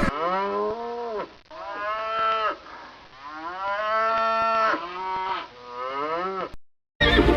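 Cattle mooing: about five moos that bend up and down in pitch, the longest in the middle.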